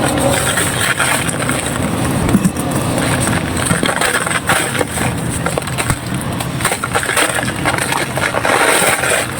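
Dry, pressed red sand crumbling, a dense continuous run of small gritty crunches and crackles.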